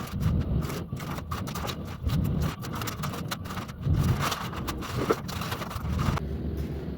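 Adhesive tape being peeled off a painted wall, a dense, irregular crackling with low thumps from handling.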